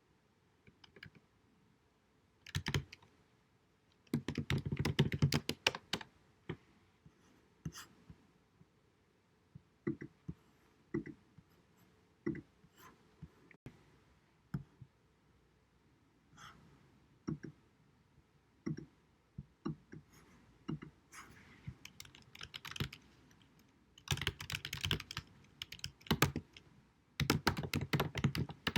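Typing on a computer keyboard, with sharp key clicks. Single keystrokes come with pauses between them, broken by fast runs of typing about four seconds in, near 24 seconds, and again near the end.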